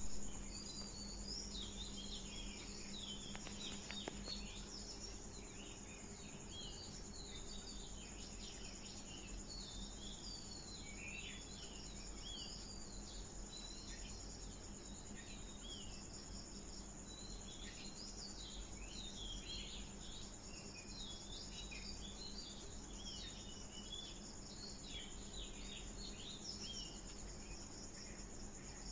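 Faint steady high-pitched insect drone with many short bird chirps over it throughout.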